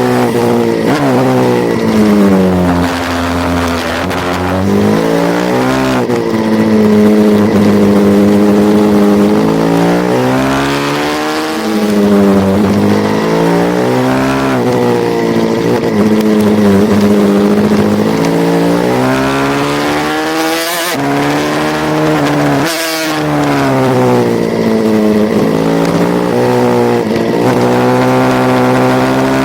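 Racing pit bike's single-cylinder engine, revving up and falling away again and again as it is ridden hard through gears and corners. The engine cuts out sharply twice, briefly, near the two-thirds mark.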